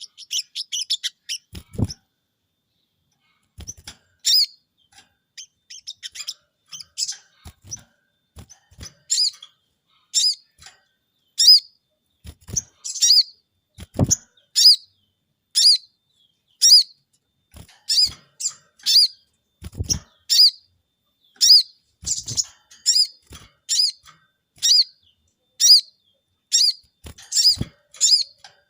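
A caged sogon (crested jay) calling: short, sharp, high notes repeated about once or twice a second, starting a few seconds in after a brief quiet spell. A few low thumps come in between.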